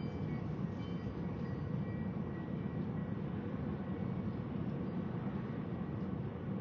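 Steady rushing wind noise with a low rumble, unbroken throughout.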